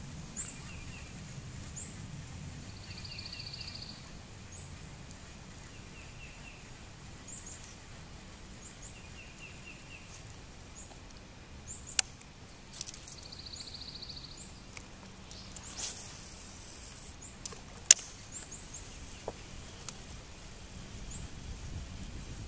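Wild birds calling: short high chirps, a fast trill heard twice, and a few quick runs of chirps, over a low steady rumble. Two sharp clicks about six seconds apart are the loudest sounds.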